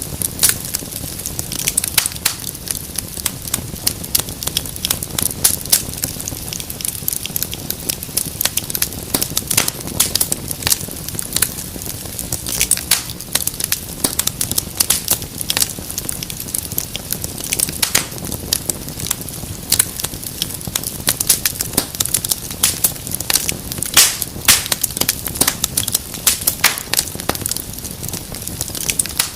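Fire crackling in a fireplace: a continuous hiss of burning with dense, irregular pops and snaps that never let up.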